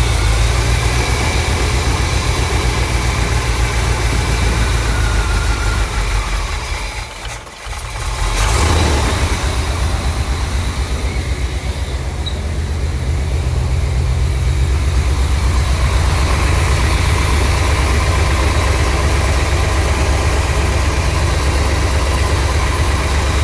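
A 1979 Corvette's L82 350 V8 running rough just after a cold start. Its level sags sharply about seven seconds in, as if about to stall, then picks back up and settles into a steady idle.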